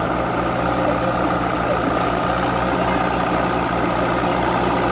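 Farmall H tractor's four-cylinder engine running at a steady, even pitch.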